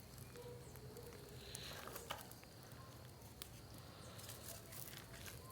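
Faint crackling of a small open fire, with scattered sharp pops and clicks over a low background hiss.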